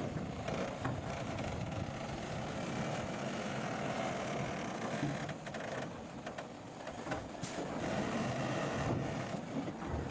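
Bulldozer's diesel engine running steadily under load, with a few short sharp knocks over the rumble.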